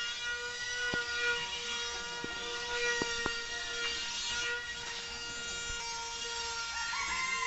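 Small 3.7-volt electric motor of a foam RC airplane spinning its propeller, a steady whine, with a few sharp clicks along the way.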